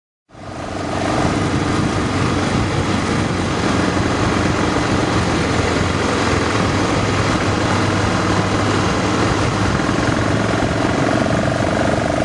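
Motorcycle engine running steadily on the move, with an even rush of wind noise over it. The sound fades in from silence just after the start.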